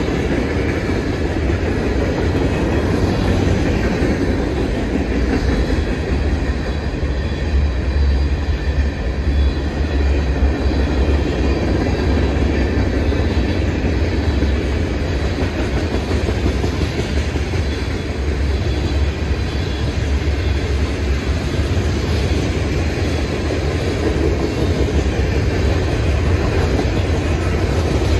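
Mixed freight cars of a manifest train (gondolas, tank cars, boxcars) rolling past at close range: a steady, unbroken rumble of steel wheels on the rails.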